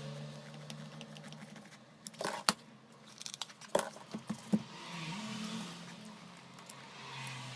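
A small electric motor running with a steady hum, its pitch rising and falling around five seconds in as the speed changes. Several sharp clicks and knocks come between about two and five seconds in.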